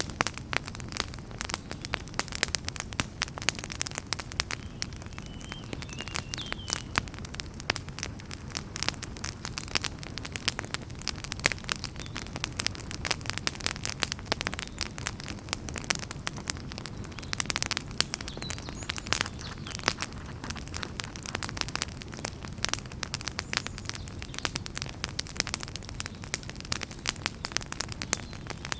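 Campfire of burning firewood crackling, with dense, irregular pops and snaps over a low, steady rumble of the flames.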